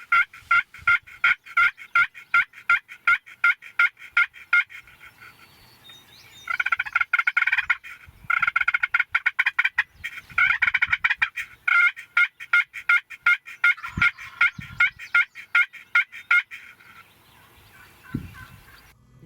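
Wild turkeys calling: long runs of rapid, evenly spaced loud notes, about four a second, in several bouts with short breaks.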